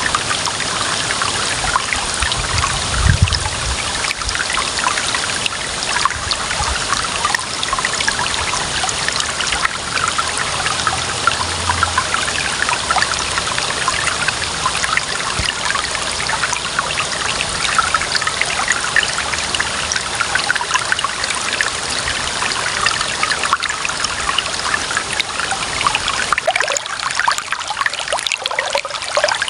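Clear running water trickling steadily, with a brief low thump about three seconds in.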